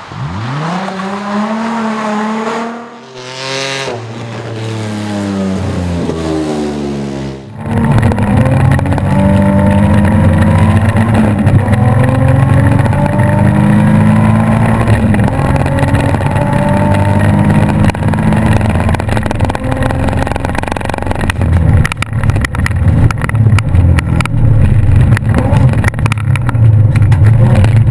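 Rally car engine revving hard through the gears, its pitch climbing and dropping several times in the first seven seconds. Then an abrupt change to a louder, closer engine sound that climbs in pitch again and again with each gear change, with rattling and clatter from about two-thirds of the way in.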